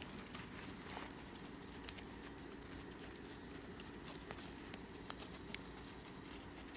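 Burros walking, their hooves giving faint, irregular clops and taps, several a second.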